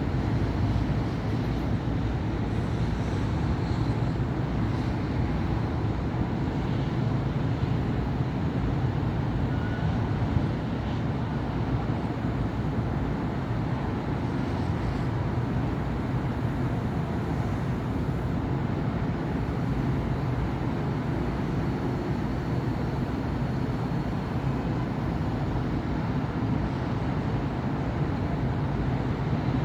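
Steady city street traffic: cars and buses passing in a continuous low rumble of engines and tyres.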